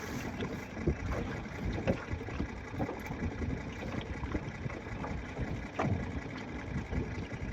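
Wind buffeting the microphone on a jon boat: a low, uneven rumble with irregular gusts and short knocks throughout.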